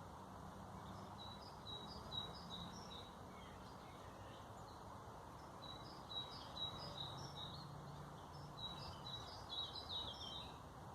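Small birds chirping in repeated phrases of short, high notes, with three bursts of song, over a steady low background hum.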